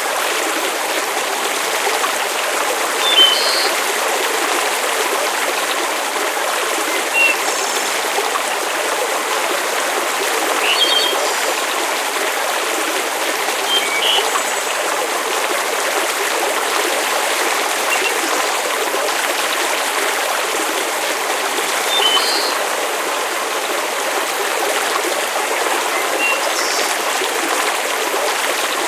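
Layered nature-ambience track: a steady, even rushing hiss like running water or rain, with short faint high chirps or pops every few seconds.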